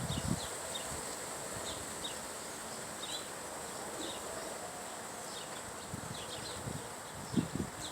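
Small backyard birds giving many short, falling chirps over a steady high-pitched buzz. A few low rumbles come at the start and near the end.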